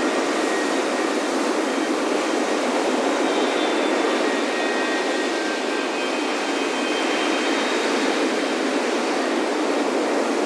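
Continuous wash of ocean surf breaking on a beach, a steady roar with no lulls, with faint wind chime tones ringing now and then.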